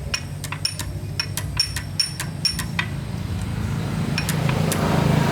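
A series of light metallic clinks and taps from tools and engine parts, about a dozen in quick succession, each ringing briefly. They sit over a steady low hum, and a hiss rises near the end.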